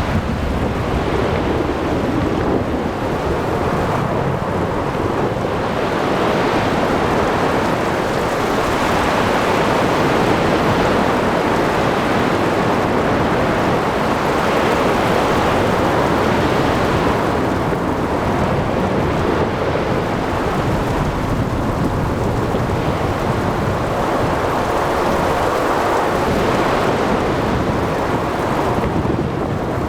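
Sea thunderstorm ambience: a steady roar of rain, wind and breaking surf, swelling and easing every few seconds, with low thunder rumbling underneath and no sharp cracks.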